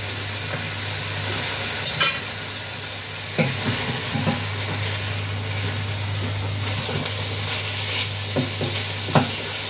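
Chicken pieces sizzling as they fry in oil in a pan, with a wooden spatula knocking and scraping against the pan a few times as the chicken is stirred and turned over.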